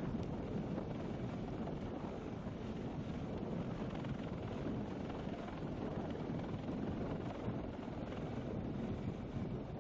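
Steady, even rumbling noise with wind buffeting the microphone, without distinct shots or impacts.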